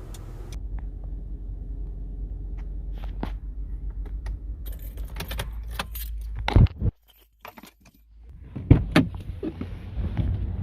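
Low rumble of a car running, heard from inside, with light metallic jangling and clicks. The rumble cuts off abruptly about seven seconds in, and a few sharp knocks and clicks follow.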